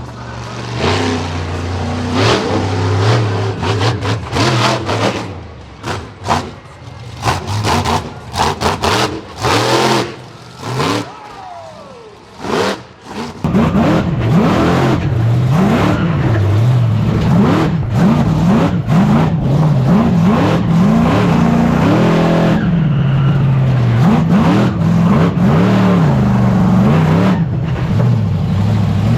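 Monster truck engine revving hard and repeatedly, its pitch rising and falling, with a series of sharp bangs and knocks in the first half. About halfway through it becomes louder and runs continuously at high revs, surging up and down.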